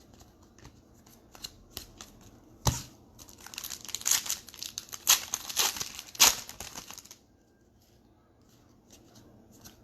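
A trading-card pack wrapper being torn open and crinkled: a run of crackles and rustles with a sharp snap about three seconds in, busiest for a few seconds and then dying away.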